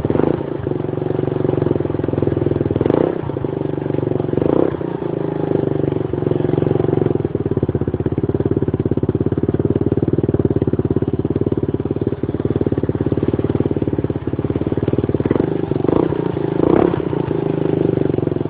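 Scooter engine running through a Turbo Kit race exhaust, idling steadily with a few short throttle blips, two about three to four seconds in and two more near the end.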